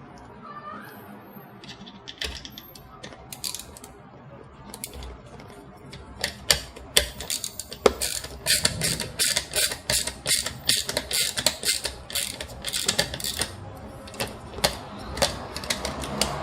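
Quick runs of small, sharp metallic clicks and rattles from working with small screws and a screwdriver. The clicks start about two seconds in, are thickest in the middle, and thin out near the end.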